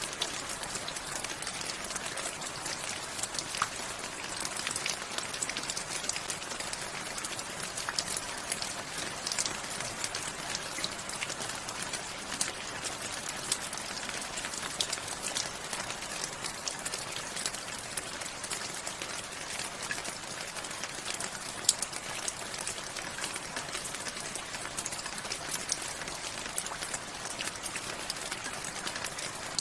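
Steady rain, with many individual drops pattering on a surface as a dense scatter of small ticks and a hiss.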